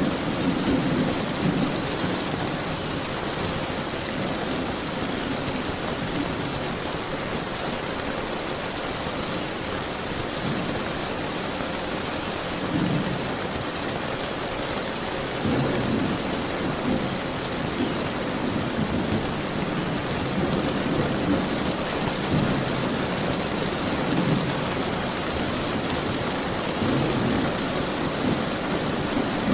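Steady heavy rain falling, with low rumbles of thunder swelling up several times, near the start, around the middle and towards the end.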